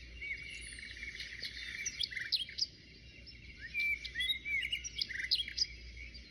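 Several small birds chirping and singing, with many short arched notes and quick trills overlapping, over a faint low rumble.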